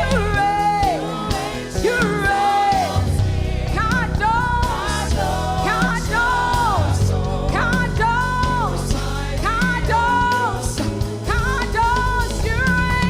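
Live gospel worship music: a singing voice holding long, wavering notes over a band with steady bass and drums.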